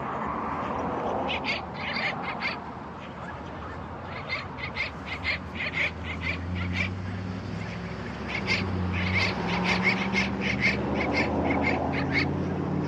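Birds calling: three bouts of rapid, short, sharp high calls, several a second, with a low steady hum underneath from about halfway through.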